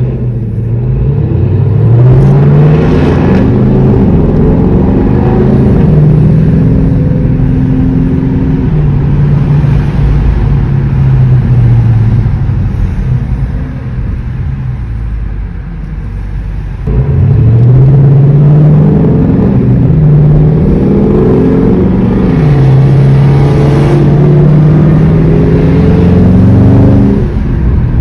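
Loud V8 car engine running and being revved, its pitch holding steady and then rising and falling again and again. It breaks off abruptly about two-thirds of the way through, then returns.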